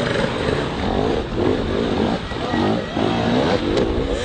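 Motocross bike engines revving, with the pitch rising and falling over and over as several engines overlap.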